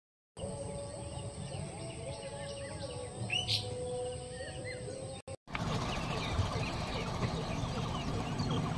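Birds chirping and calling over a steady background noise, with a thin high whine in the first few seconds; the sound breaks off briefly about five seconds in and resumes with denser chirping.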